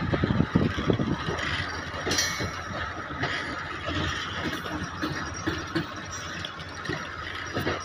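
Goods train wagons rolling past, their wheels clattering and knocking irregularly over the rails with a steady rumble. The knocks are heaviest at the start.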